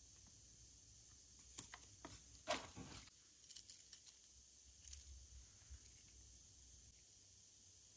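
Faint handling noises from unboxing: scattered small clicks and rustles, the loudest about two and a half seconds in, over a low steady hum.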